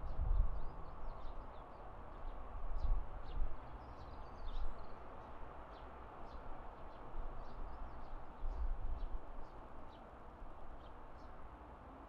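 Evening outdoor ambience: small birds chirping in short, high, scattered calls over a steady distant background hum, with low rumbling gusts near the start, about three seconds in and around nine seconds in.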